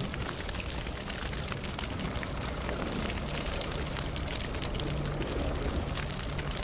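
Wood campfire crackling, with many small sharp pops and snaps over a steady low rumble of burning.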